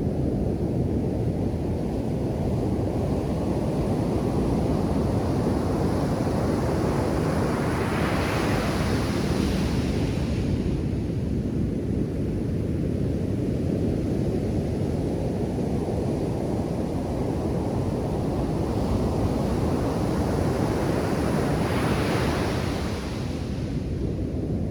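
Ocean surf on a beach: a continuous low rush of water with two waves breaking, one about eight seconds in and another near the end.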